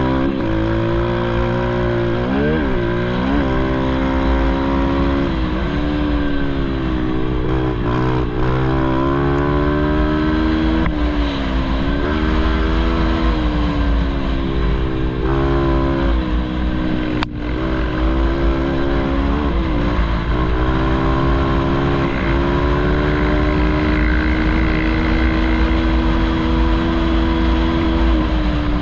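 Pit bike engine running hard under a rider, its pitch rising and falling over and over with throttle and gear changes. There is a single sharp click about seventeen seconds in.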